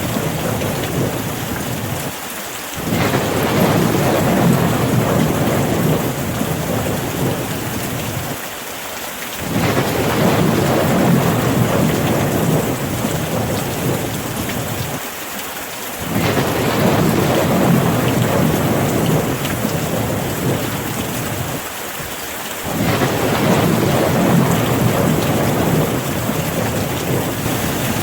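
Steady rain with a low rumble underneath that swells and fades in even cycles, about every six to seven seconds.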